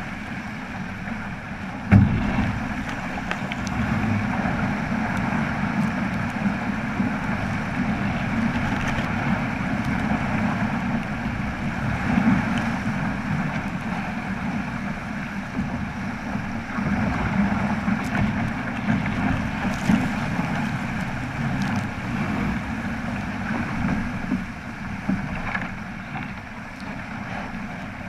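Steady wind and water noise from a Flying Fifteen keelboat under sail, with a sharp knock about two seconds in.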